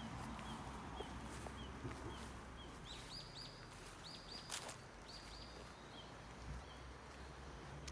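Small bird calling with short, high chirps repeated about twice a second, with a burst of louder chirps in the middle. Now and then a sharp crack from a wood campfire.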